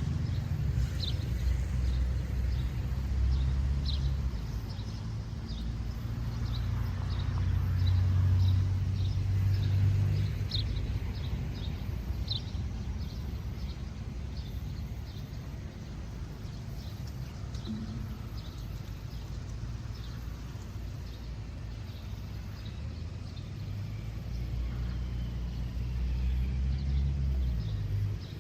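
Outdoor ambience: a steady low rumble, swelling and easing a couple of times, with short high chirps repeating about twice a second, thinning out past the middle.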